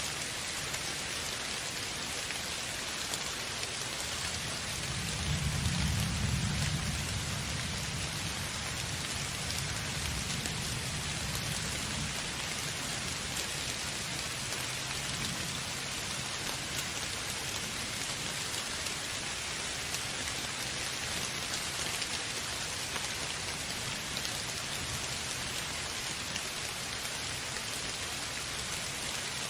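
Steady rain hissing, with a low rumble of distant thunder that swells about five seconds in and fades away over the following ten seconds.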